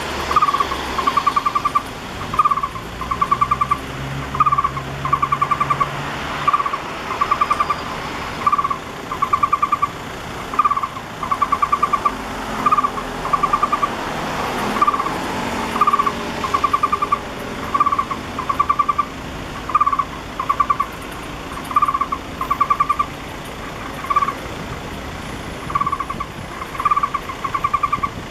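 Taiwan barbet nestling calling over and over for food, begging for a parent to feed it. Each call is a short, rapid trill of clicking notes, repeated about one to two times a second. Low traffic rumble runs beneath.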